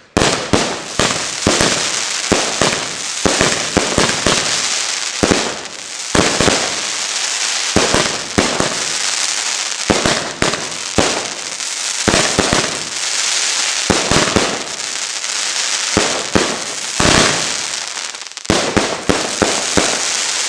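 Fireworks going off: a dense, continuous crackle of bursting effects, broken by many sharp bangs.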